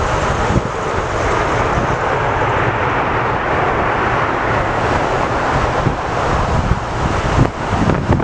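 Jet airliner passing with a steady engine rush, while strong wind buffets the microphone with a low rumble.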